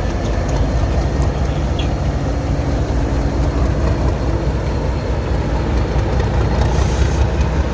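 Class 37 diesel locomotive's English Electric V12 engine running with a steady low rumble as it pulls away, dragging a Class 91 behind it. A short hiss sounds near the end.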